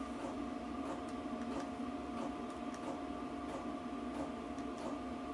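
Faint, irregular clicks of calculator keys being pressed as 39 is divided by 64, over a steady electrical hum.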